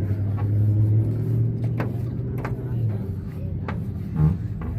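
A car engine running nearby, a steady low hum that fades after about three seconds, with a few sharp clicks scattered through.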